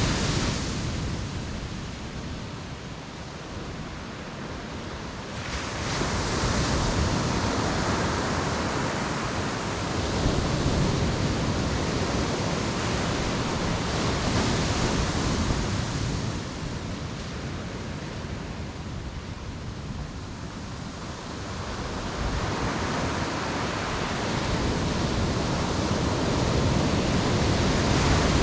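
Ocean waves breaking and washing up the beach, coming in slow surges that build and fade over several seconds each.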